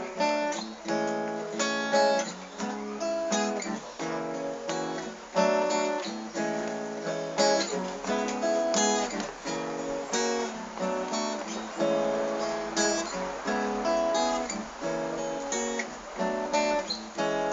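Acoustic guitar strumming chords in an instrumental passage of the song, with no singing.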